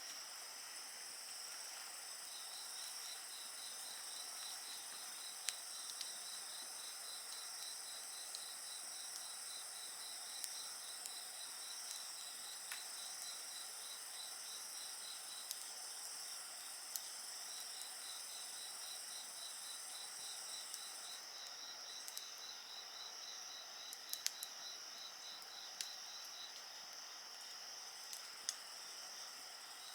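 Crickets and other night insects singing in several overlapping high trills, one with a regular pulsed chirp, and a higher continuous trill that stops about two-thirds of the way through. Scattered sharp crackles and pops from a wood campfire.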